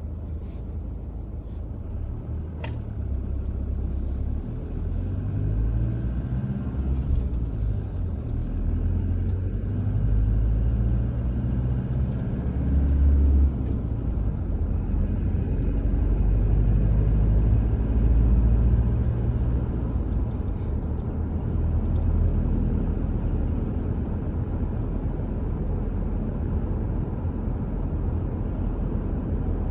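Low rumble of a car driving along a road, swelling and easing a little over time. A single sharp click about three seconds in.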